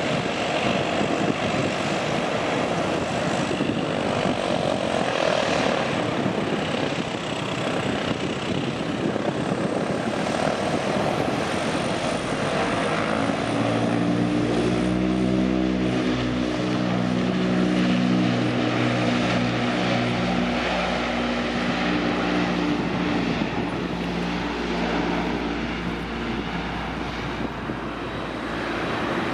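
Japan Air Self-Defense Force YS-11EB's twin Rolls-Royce Dart turboprops running at high power in a loud, steady rushing noise. From about halfway through, a deep propeller drone of several steady low tones stands out, then thins out near the end.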